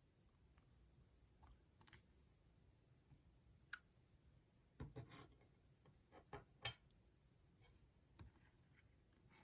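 Soft slime being poked and pressed by hand, giving faint sticky clicks and small pops, a few scattered and a cluster of them near the middle.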